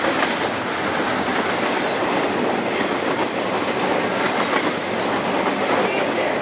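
Double-stack container freight train rolling past close by: steady noise of steel wheels on rail as the loaded well cars go by.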